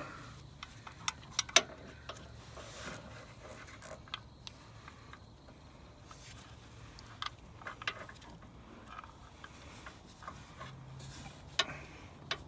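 Scattered light clicks and knocks of hand tools and parts being handled, with one sharper knock about a second and a half in, over a faint low steady hum.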